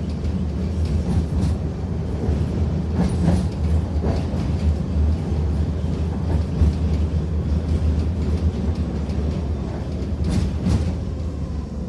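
Tatra T6B5SU tram running along the track: a steady low rumble of wheels and running gear, with a few sharp clacks over rail joints, two of them close together near the end.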